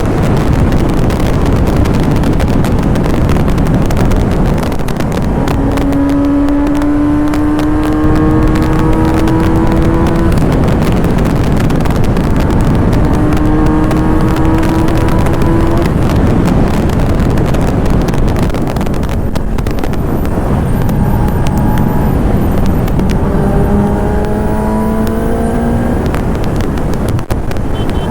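Kawasaki ZX-10R's inline-four engine pulling hard, its note rising in pitch for a few seconds at a time and breaking off at each gear change, three times with a fourth climb starting near the end. Heavy wind rush on the microphone at speed runs under and over it.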